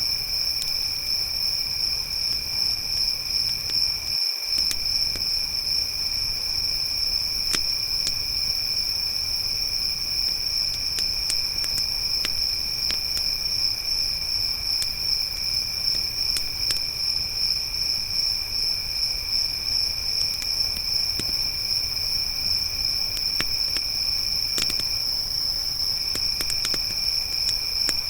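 Crickets trilling without a break, a high trill over a lower one, with scattered sharp pops and crackles from a campfire.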